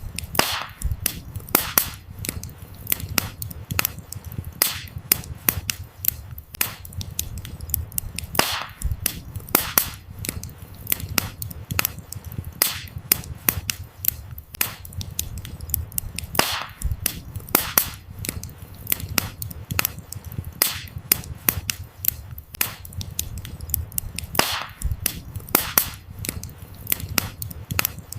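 Wood fire burning, with dense, irregular crackles and sharp pops of firewood over a low rumble of flames.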